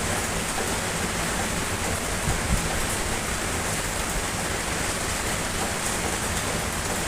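Steady rain falling, an even hiss at a constant level, with a couple of soft low knocks about two and a half seconds in.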